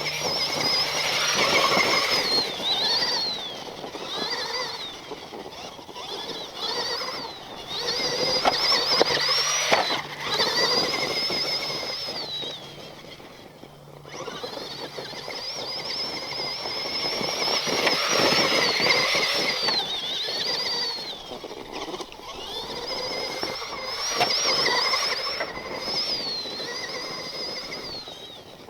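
Axial SMT10 Grave Digger RC monster truck driving, its electric motor and all-metal gear transmission whining high, the pitch rising, holding and dipping with the throttle in several bursts. Rough noise from the tyres and ground swells along with each burst.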